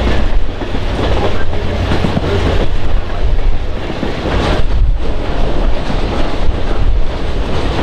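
Passenger train rolling along the track: a steady low rumble of wheels on rail with irregular clacks as they cross rail joints.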